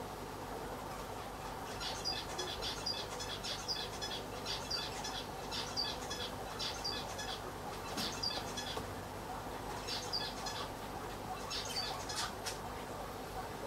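A small bird chirping in repeated quick bursts of high calls, starting about two seconds in and stopping near the end, over a steady hum of aquarium equipment.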